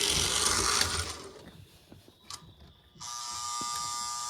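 Postwar Lionel 1666 locomotive's electric motor running on the track, cutting out about a second in with a few faint clicks. About three seconds in a steady electric hum starts.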